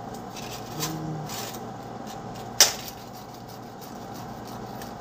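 A single sharp click or knock about two and a half seconds in, over a steady hum.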